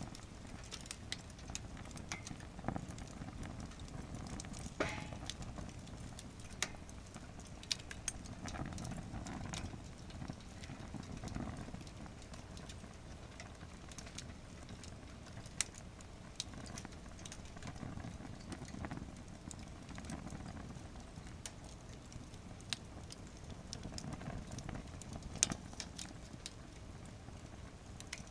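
Wood fire burning in a campfire stand: a steady low rush of flames with irregular sharp crackles and pops of burning firewood.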